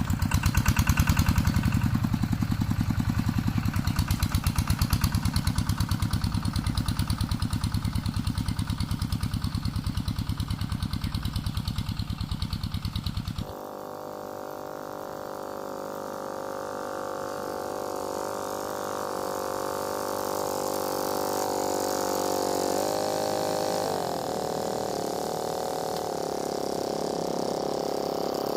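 Walking tractor's single-cylinder diesel engine chugging with a fast, even pulse. About halfway through it changes abruptly to a quieter, smoother engine sound with a higher pitch that shifts a little later on.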